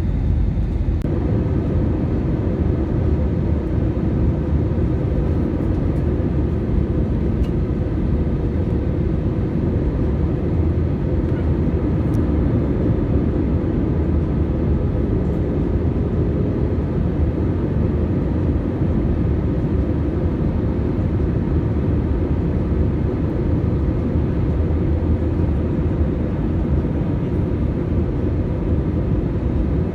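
Airbus A320 cabin noise in flight: a steady, even rush of airflow and jet engine noise, heaviest in the low end, with a faint steady hum above it.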